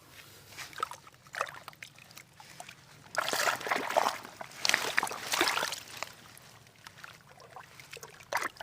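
Water splashing and sloshing in several bursts, loudest from about three to six and a half seconds in.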